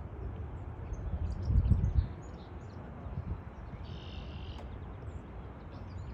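Common snipe giving a rapid, buzzy, chattering call once, about four seconds in, with faint scattered chirps around it. Low wind rumble on the microphone swells to its loudest a second and a half in.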